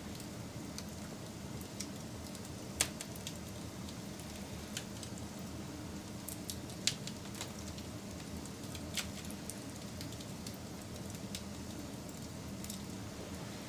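Wood fire crackling: a steady low hiss and rumble of burning with scattered sharp pops and snaps, the loudest about three seconds and seven seconds in.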